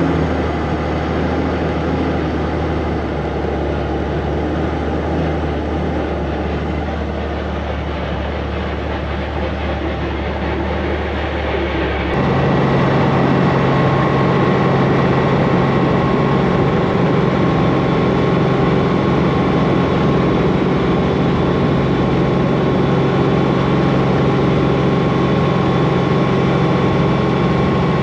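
Robinson piston helicopter's engine and rotor running with a steady drone. About twelve seconds in, the sound jumps suddenly to a louder, higher-pitched drone.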